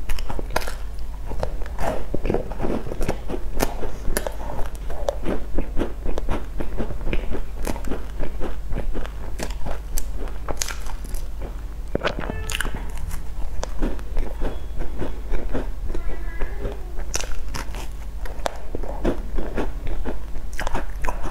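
Close-up eating of a crusty sesame-coated bun: crisp bites and steady chewing of the crust, a dense run of irregular crunchy clicks, over a steady low hum.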